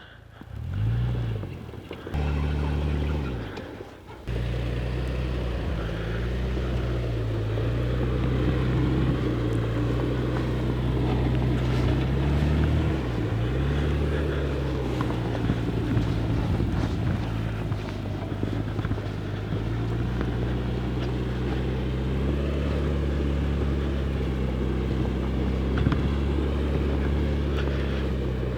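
Truck engine running at low revs during slow maneuvering on snow, its pitch rising and dipping slightly now and then.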